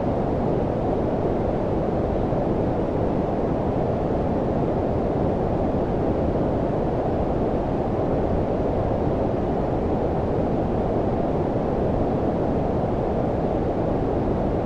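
Steady low-pitched synthesised noise, white noise filtered so that most of its energy sits below about 1 kHz, muffled and even, with no changes.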